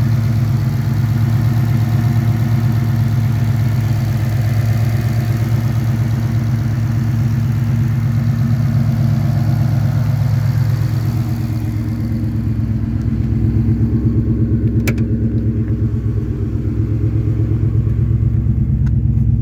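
Ford Coyote 5.0 L V8, swapped into a Fox-body Mustang, idling steadily with an even low exhaust pulse. A single sharp click comes about fifteen seconds in.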